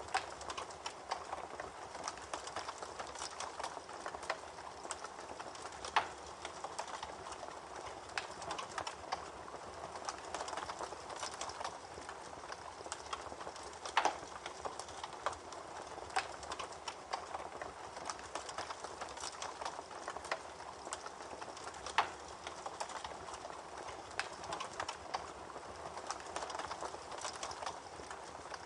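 Campfire crackling: a steady hiss of burning wood with frequent small snaps and three louder pops spread evenly through.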